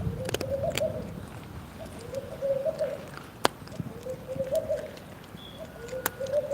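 A dove cooing over and over, one low coo about every two seconds, with a few sharp clicks in between.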